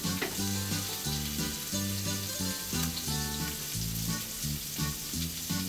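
Frozen prawns sizzling steadily in hot oil in a frying pan, giving off their water as they fry, while a spatula stirs chopped garlic into onions in a pot.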